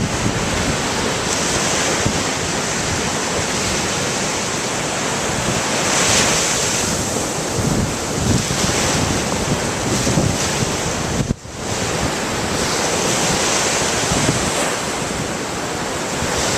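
Ocean surf washing in, mixed with wind buffeting the microphone: a loud, continuous rush that swells and eases, with a brief dropout about eleven seconds in.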